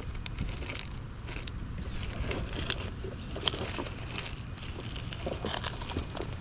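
Scale RC crawler truck working over rough rocky ground: scattered crunches and clicks from the tires and chassis over a steady low rumble.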